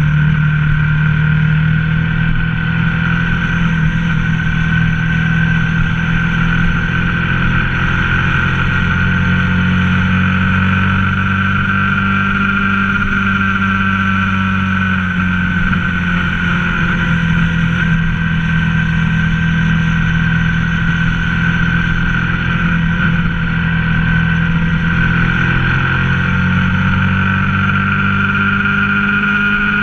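Ducati ST4S sport-tourer's L-twin engine running under way, its pitch drifting slowly up and down as the speed changes, over a steady rush of wind and road noise.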